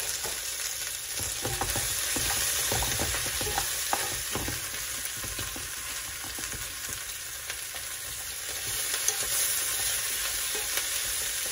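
Cubed butternut squash, onions and garlic sizzling in hot oil in a metal pot, with a steady hiss. A wooden spoon stirs the pot, giving irregular scrapes and knocks against it.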